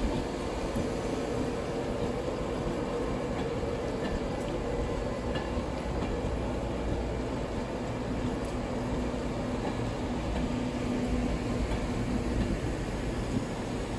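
Passenger train running past close by: a steady rumble of wheels on rail as carriage after carriage goes by. A low hum joins it for a few seconds and stops about twelve seconds in.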